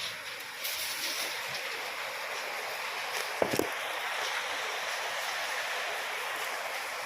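Heavy rain falling steadily, a dense even hiss. About halfway through there are two short knocks in quick succession.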